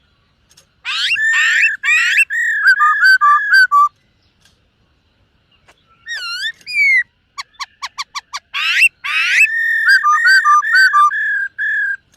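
Black-throated laughingthrush singing loud, clear whistled phrases: a burst of looping whistles from about one to four seconds in, then after a pause a longer run that starts with a quick series of short, sharp notes and ends in a string of repeated whistles.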